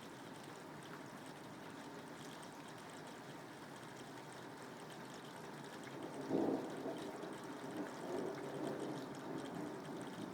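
Steady soft rain, with a roll of thunder breaking in about six seconds in and rumbling unevenly on until near the end.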